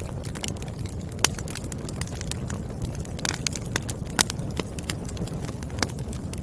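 Burning firewood crackling: a steady low rumble of flame with frequent sharp pops and snaps, two louder pops about a second in and about four seconds in.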